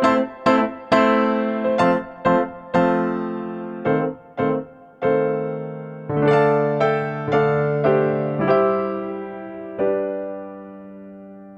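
Background piano or electric piano music: single struck notes, each fading away, slowing into a final held chord that fades out near the end.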